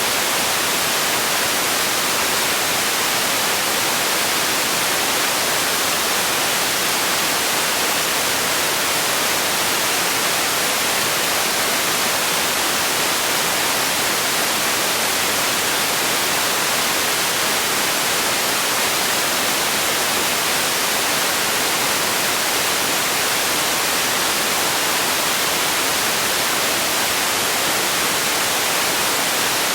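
Steady noise made for sleep: an even, unchanging hiss, strongest in the high pitches, with no breaks or events.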